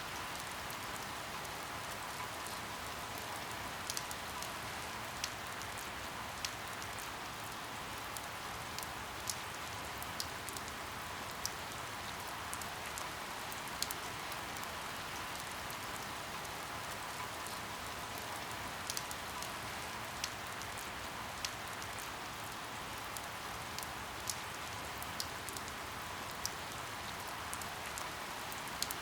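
Steady rain falling, with scattered sharp drip ticks of drops striking a hard surface every second or so.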